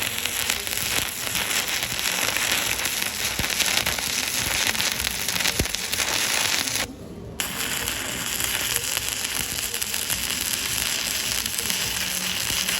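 Stick (shielded metal arc) welding with a 7018 electrode: the arc crackling steadily. It cuts out for about half a second around the middle, then picks up again.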